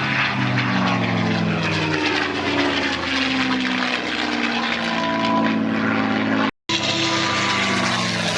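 P-51 Mustang's Packard-built Merlin V-12 engine running loud as the fighter flies past, its engine note sliding in pitch with the pass. The sound drops out completely for an instant about six and a half seconds in.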